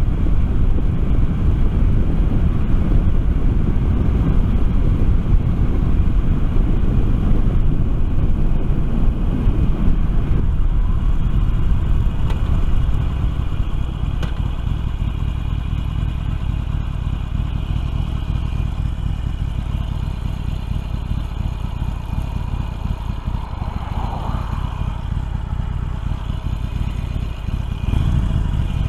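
Harley-Davidson Sportster XL1200R's V-twin engine running under way, heard with rushing air through a helmet-mounted microphone. It gets a little quieter about halfway through.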